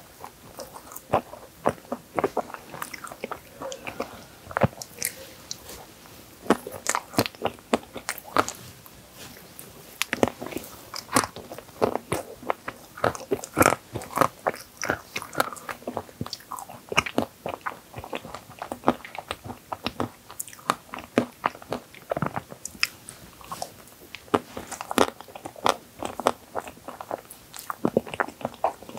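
Close-up chewing of Oreo cookies-and-cream tiramisu: many short, crisp crunches of cookie crumbs in an uneven rhythm.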